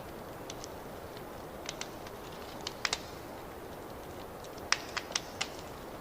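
Wood fire crackling in a fireplace: a steady low rumble of burning with scattered sharp pops and snaps, a cluster of them in quick succession about three-quarters of the way through.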